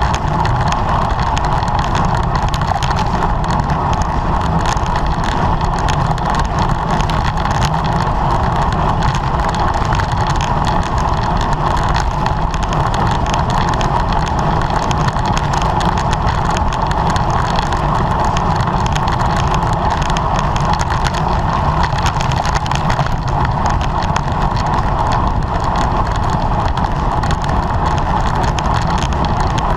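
Steady rush of wind and road noise on a bicycle-mounted camera's microphone while riding at race speed.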